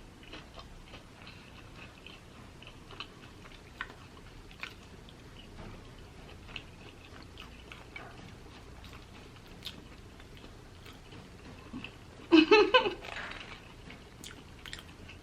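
Close-up chewing and biting of a potato-crusted Korean mozzarella corn dog, with many small crunches and wet mouth clicks. Near the end, a short loud voice sound breaks in for under a second.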